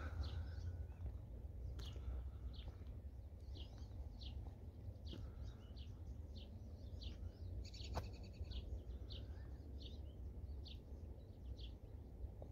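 Small birds chirping: short high single chirps, about one or two a second, with a brief rapid trill about eight seconds in, over a faint low rumble.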